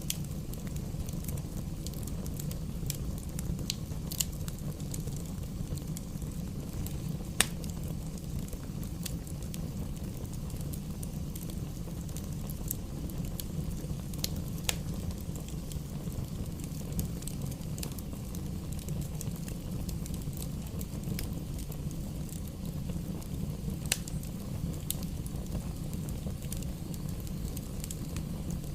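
Bonfire burning with a steady low rumble and scattered sharp pops and crackles, the loudest pop about a quarter of the way through.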